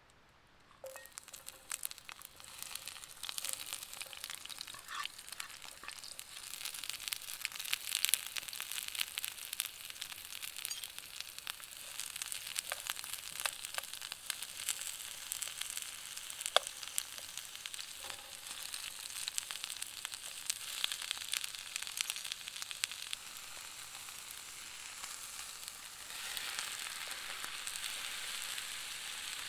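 Food sizzling and frying in a hot pan, starting about a second in with a steady spitting hiss and many small pops, a little louder near the end.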